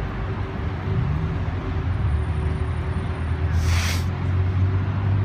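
A car engine running with a steady low drone, and a short burst of hiss about three and a half seconds in.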